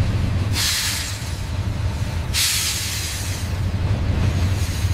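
Freight train rolling, a steady low rumble, with two long hisses, one about half a second in and another around two and a half seconds.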